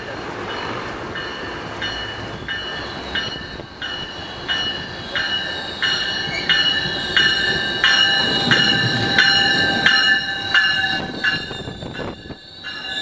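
Train bell ringing steadily, roughly one and a half strikes a second, over the rumble of a passenger train in the station, which grows louder about two-thirds of the way through.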